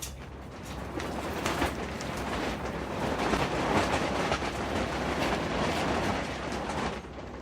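A gust of wind rushing over the microphone, building over a few seconds and dropping away suddenly near the end.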